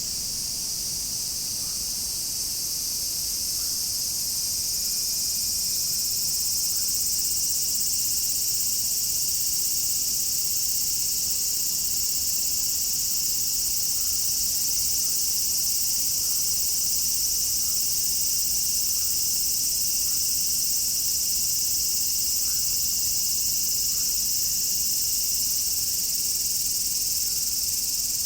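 Chorus of cicadas shrilling, a dense, steady high-pitched drone. A thinner, lower steady tone joins in about five seconds in and carries on.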